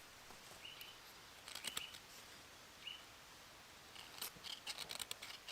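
Faint crackling and scraping of dry bracken being crumpled into a tinder nest by hand, in short bursts that come thicker near the end. A few short high chirps are heard as well.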